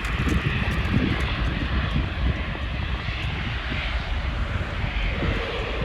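Jet airliner engines running, a steady rushing noise without a clear tone, with wind rumbling on the microphone underneath.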